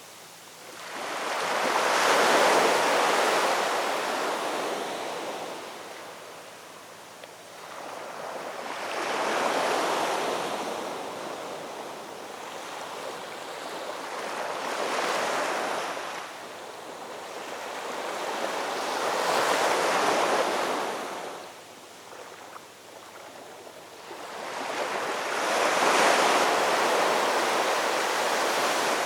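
Ocean waves breaking and washing ashore in slow surges, five swells about one every five to six seconds, each rising and then falling away.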